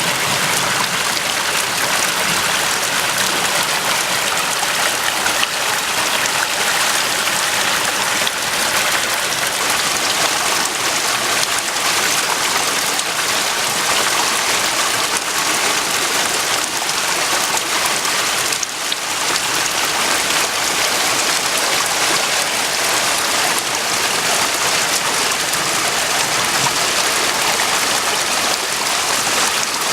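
Floodwater in a swollen creek rushing past: a steady, loud rush of water.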